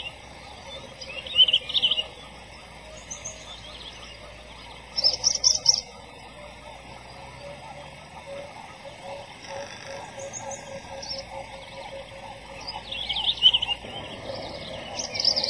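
Wild birds calling in short bursts of high chirps about four times, over a quieter steady background of softer calls.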